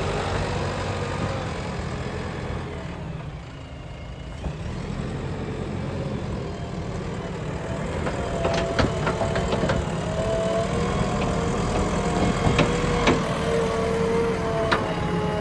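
Diesel engine of a JCB excavating machine running steadily, with several sharp knocks in the second half.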